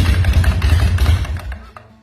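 Custom hardtail chopper's engine running at idle with a deep, uneven pulse, cut off suddenly about a second and a half in, leaving quiet background music.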